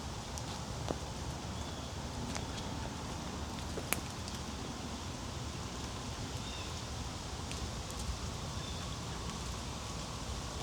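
Wet woodland after rain: a steady low rustle with a few sharp ticks of drops falling from the trees, and faint short bird chirps now and then.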